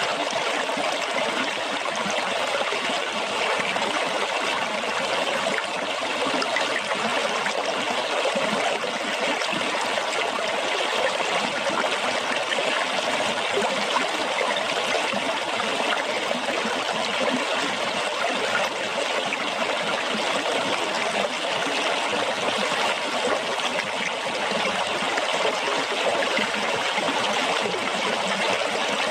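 Water flowing and splashing steadily, an even, unbroken rush with no change in level.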